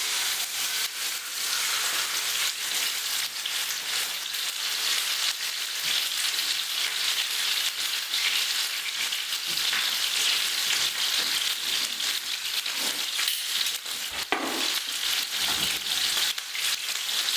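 Chicken breasts sizzling in hot oil in a frying pan, a steady hiss that comes up sharply as they go in at the start.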